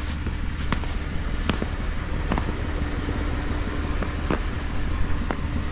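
Footsteps crunching in snow, roughly one step every second, over a steady low rumble.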